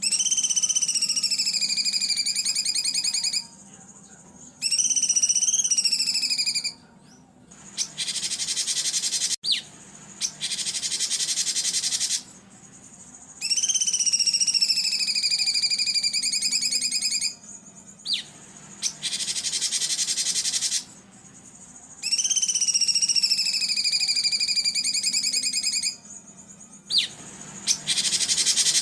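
Recorded songbird calls played as a masteran training track. Long, trilled, whistling calls of about two to four seconds, each rising at first and then sagging in pitch, alternate with harsh, rasping, buzzy bursts of about two seconds each.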